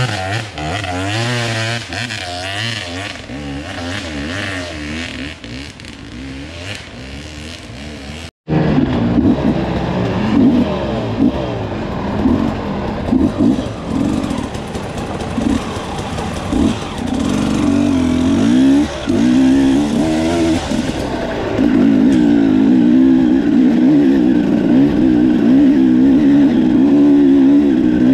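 Enduro motorcycle engines running and revving on an off-road trail climb. After an abrupt break about eight seconds in, the throttle is blipped in short bursts, then held for steady, louder running at higher revs near the end.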